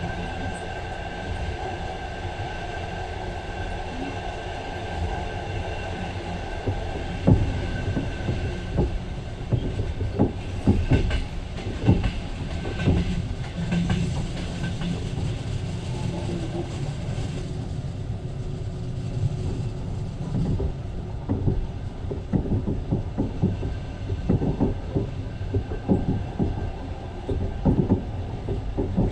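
Passenger train running along the track, heard from inside the carriage: a steady rumble with a thin high tone through the first half, then irregular clacks and knocks of the wheels over the rails from about seven seconds in.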